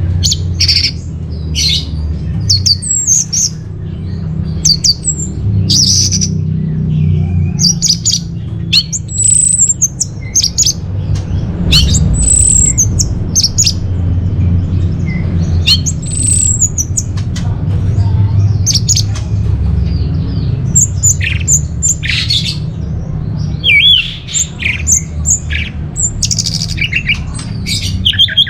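Orange-headed thrush singing: a fast, continuous run of short, high whistled and chattering phrases, some sweeping up and then down in pitch, over a steady low hum.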